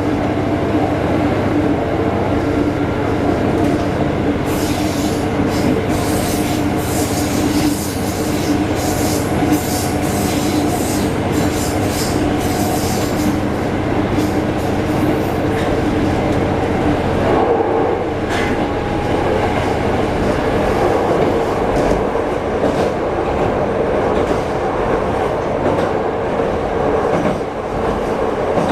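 Diesel railcar heard from inside the cabin, its engine running steadily while another train passes at the crossing station, with a run of wheel clatter and clicks from about 5 to 16 seconds in.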